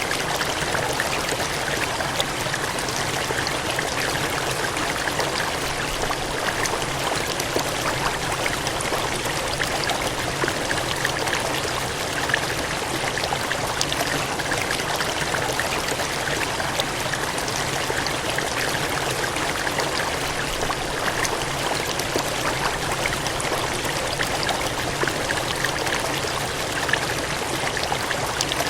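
Water gushing and cascading steadily, an even rushing noise flecked with small splashes.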